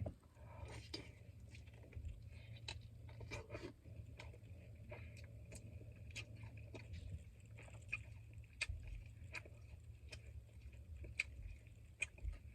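Close-up chewing and lip-smacking of someone eating chicken wings: many small wet clicks at irregular intervals, over a steady low hum.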